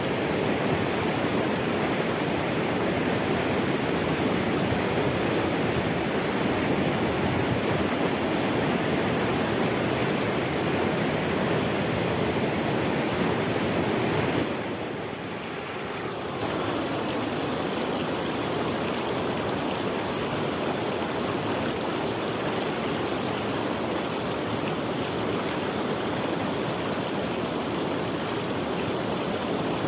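Running water rushing steadily. It drops in loudness for about two seconds halfway through, then carries on slightly quieter.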